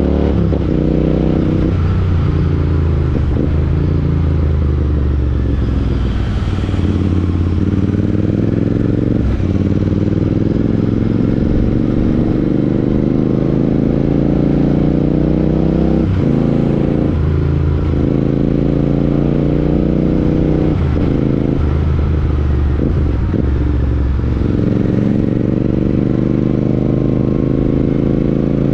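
Royal Enfield Interceptor 650's parallel-twin engine through a Chris Michael aftermarket exhaust, riding under load. The note rises repeatedly and drops back sharply several times at gear changes.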